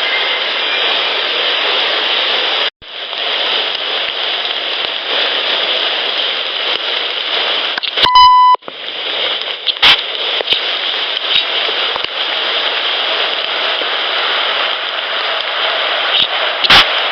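Steady rain hiss on a field audio recorder, broken by a single short electronic beep from the recorder about eight seconds in and a few sharp clicks afterwards, consistent with its buttons being pressed.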